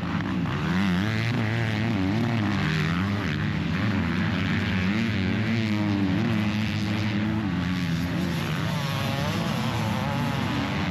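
Several motocross dirt bikes racing on the track, their engines overlapping and revving up and down through the gears.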